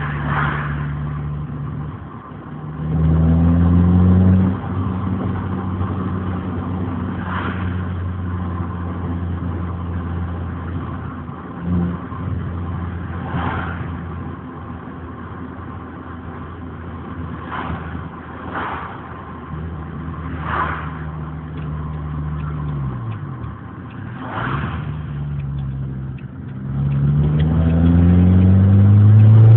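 Renault Clio engine and exhaust under way. The engine revs up a few seconds in, then runs at a steady pitch. Its note drops briefly, then it accelerates hard with a rising note near the end, with a few short rushes of noise scattered through.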